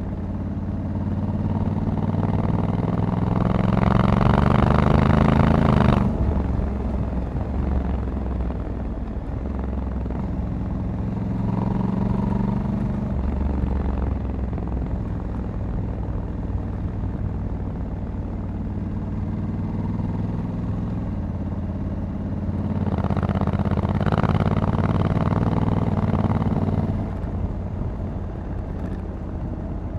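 Honda Africa Twin 1100 DCT parallel-twin engine running under way, heard from the rider's seat. Over the first few seconds it gets louder with its pitch climbing, then drops off sharply about six seconds in. It swells again for a few seconds near the end before easing off.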